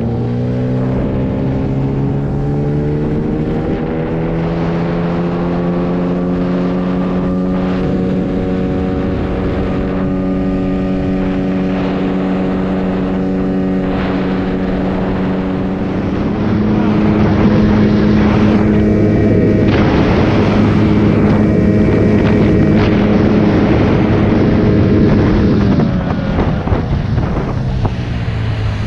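9.8 hp outboard motor running flat out on a boat under way, a steady high-revving drone. It grows louder about halfway through, and the engine note falls away a few seconds before the end as the throttle comes back.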